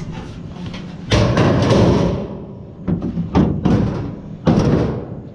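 Vehicle door being tugged and knocked while it stays locked: a long rattling scrape, then several sharp clunks and thuds.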